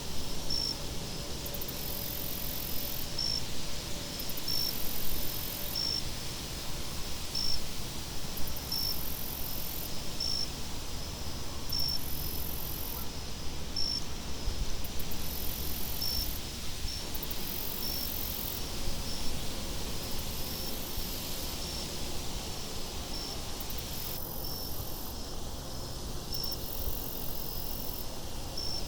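Insects chirping in a steady pattern: a short high chirp about once a second, with a higher buzz in second-long spells, over a steady low wind rumble.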